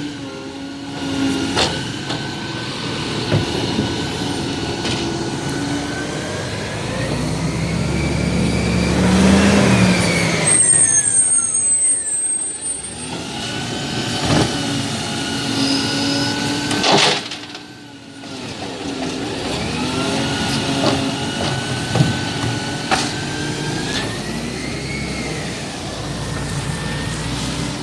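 Garbage truck running, its engine pitch rising and falling as it revs and slows. A brief high squeal comes about eleven seconds in, and a short hiss around seventeen seconds.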